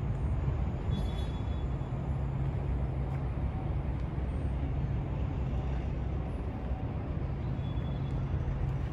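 Steady low engine hum: a 1982 Porsche 911SC's air-cooled flat-six idling.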